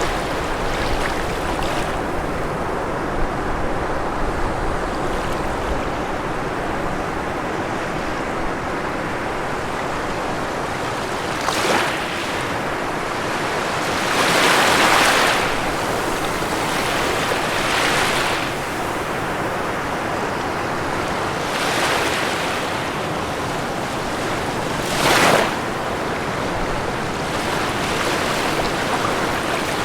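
Ocean waves breaking on a shore over a continuous wash of surf, with separate breakers surging every few seconds. The biggest surge comes in the middle and a short, sharp one comes near the end.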